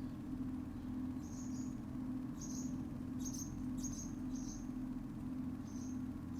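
Short, high-pitched chirps from a small bird, about eight of them at irregular intervals, over a steady low mechanical hum that swells and dips in a regular pulse.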